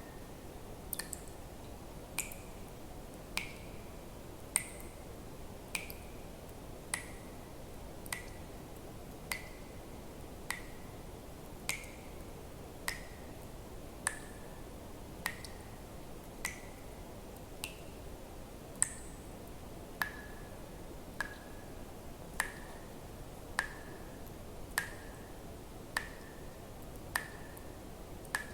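Water drops falling one at a time at an even, slow pace, about one every second and a bit, each landing as a sharp plink with a short ringing tone whose pitch shifts slightly from drop to drop. A faint steady hiss runs underneath.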